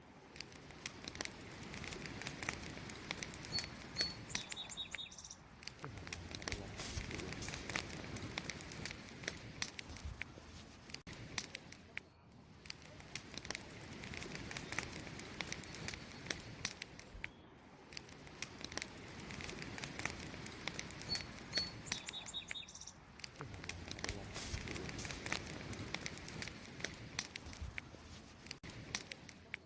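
Wood campfire burning with a dense, constant crackle of small pops and snaps over a low rush of flame, swelling and easing every few seconds. Faint short high chirps come twice, a few seconds in and again about two-thirds through.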